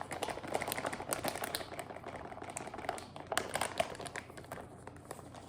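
Sliced potatoes and spices being mixed together in a large bowl: a steady run of quick small wet clicks and rustles.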